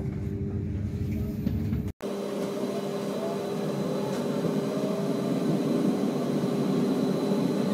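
Inside a Stadler regional train under way: steady running noise with a constant hum, broken by a brief cut about two seconds in, after which a faint whine slowly rises in pitch as the train picks up speed.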